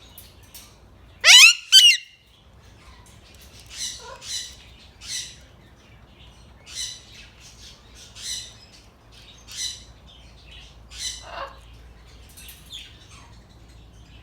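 Pet parrots calling: two loud, rising squawks about a second in, then a run of shorter, quieter chirping calls about once a second.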